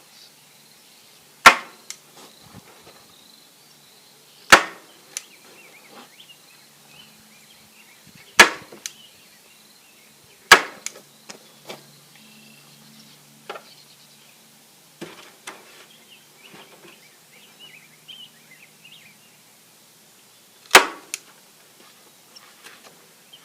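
Staple gun firing staples into a wooden gate frame to fasten hardware cloth: five loud, sharp snaps at uneven intervals, about 1.5, 4.5, 8.5, 10.5 and 21 seconds in, with fainter clicks and rustling of the wire mesh between.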